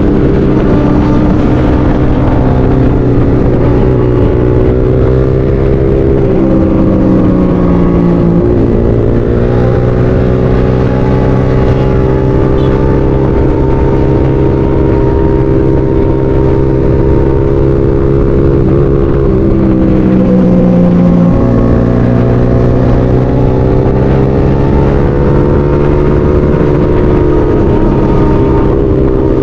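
A motorcycle engine running under way with wind rush on the microphone. Its note dips and climbs back twice, about a quarter of the way in and again about two thirds in.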